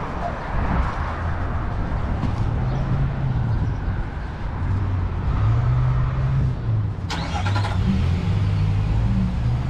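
Street traffic: a motor vehicle's engine running close by, its pitch rising and falling as it changes speed, with a short hissing burst about seven seconds in.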